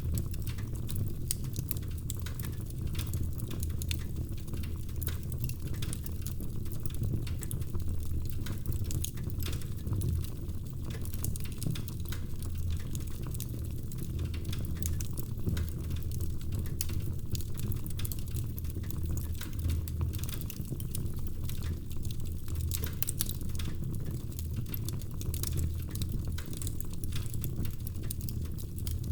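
Wood fire crackling in a fireplace: a steady low rumble of the flames with irregular sharp pops and snaps.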